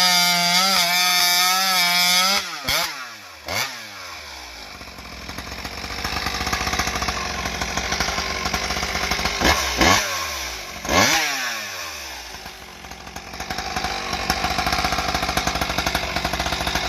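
Mastermind-ported Stihl MS661 chainsaw with a tuned expansion-chamber exhaust pipe running at full throttle while cutting Engelmann spruce. About two seconds in, the revs drop sharply, followed by two quick throttle blips. The saw runs on, with two more sharp rev-ups and drops around ten and eleven seconds in.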